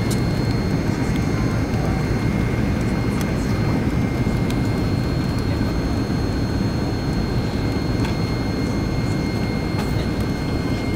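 Steady jet airliner cabin noise heard from a passenger seat: a constant low rush of engines and airflow, with a faint steady high whine above it.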